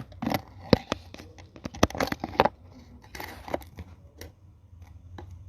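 Knocks, scrapes and rustles of a phone being handled close to its microphone, with two sharp knocks in the first two seconds, then a short hiss and a few faint clicks.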